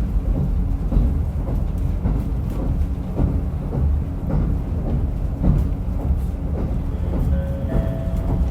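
Diesel railcar running, heard from inside the car: a steady low rumble of engine and wheels on the rails, with repeated wheel clicks over rail joints. A couple of brief steady tones come in near the end.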